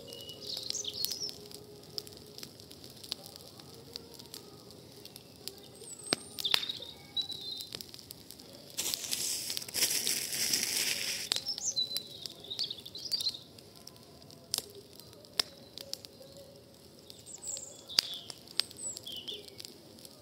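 Wood campfire crackling, with many sharp pops scattered through. Small birds chirp briefly several times, and a rushing hiss swells for about two seconds near the middle.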